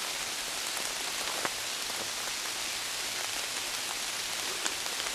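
Steady rain falling: an even hiss with a few scattered drop taps.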